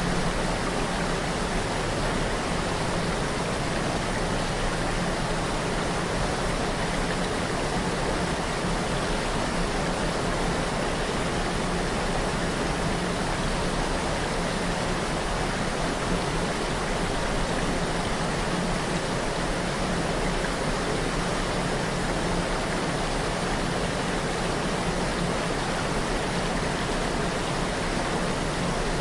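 River waterfall: water pouring over a fall in a steady, even rush.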